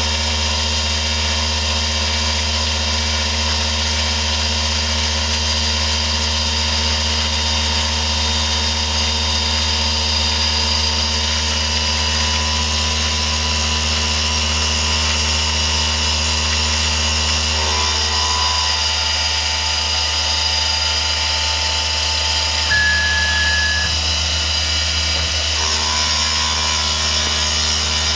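Mikini milling machine's spindle running at about 4,500 RPM with a fly cutter taking a 20-thousandths-deep facing cut, the table feeding at about 25 inches per minute: a steady machine whine and hum whose tone shifts slightly about 18 seconds in.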